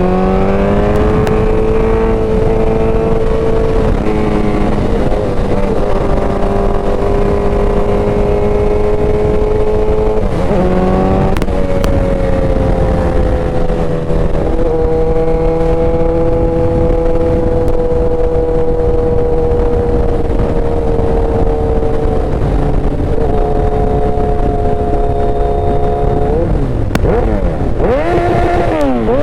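Motorcycle engine running at steady road speed, its pitch shifting a few times as the throttle and gears change, then rising and falling quickly several times near the end.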